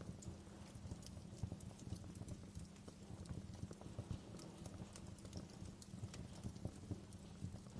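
Wood fire burning in a fireplace, crackling with irregular small pops and snaps over a low steady rumble of the flames.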